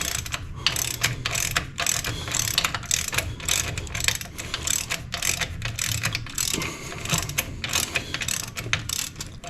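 Hand ratchet wrench clicking in quick, uneven runs as a starter-motor mounting bolt is turned in.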